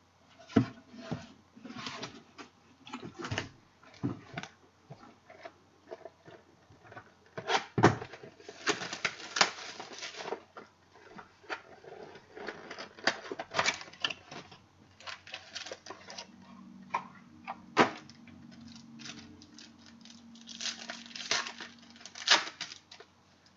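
Irregular crinkling, tearing and tapping of packaging and cards as a sealed sports-card box and its packs are opened by hand.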